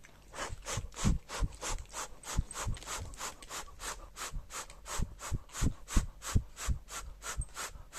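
A cat chewing a piece of sausage close to the microphone: a steady run of short wet scraping chews, about four a second, some with a soft low thud.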